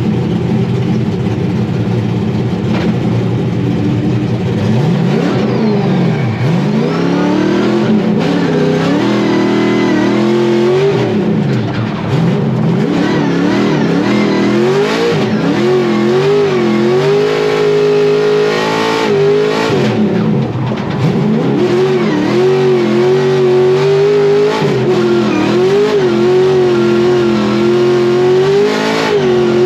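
Scion FR-S drift car's engine, its supercharger removed, running steadily at first and then revving up and down again and again from about five seconds in, held high and wavering through the second half as the car is driven hard on a shakedown run.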